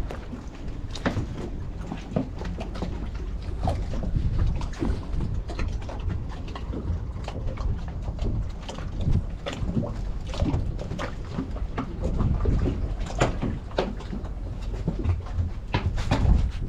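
Low, uneven rumble of wind on the microphone, with many irregular knocks and clicks scattered throughout.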